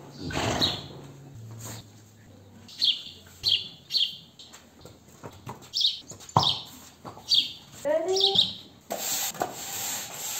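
Small birds chirping: short high chirps repeated a dozen or so times. Near the end a push broom starts sweeping the concrete floor with a rough, scratchy rasp.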